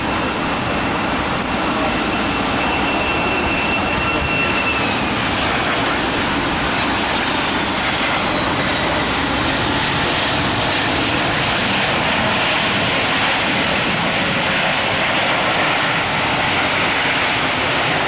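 Airliner turbine engines running, with a high whine that drops in pitch about four to nine seconds in, over a steady rushing roar.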